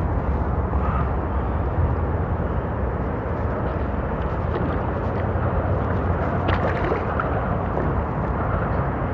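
Water sloshing and gurgling around a kayak, with a few light splashes about six and a half seconds in, over a steady low rumble.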